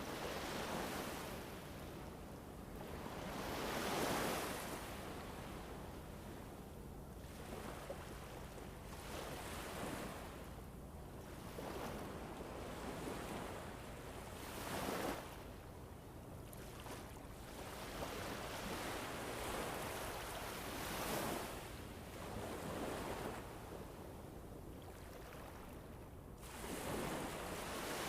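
Wind blowing in gusts, a rushing noise that swells and fades every few seconds.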